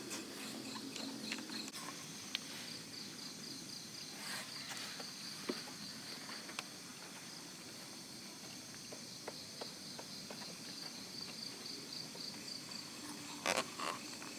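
Crickets chirping in a steady, evenly pulsing trill, with a few faint clicks and knocks and a brief louder noise near the end.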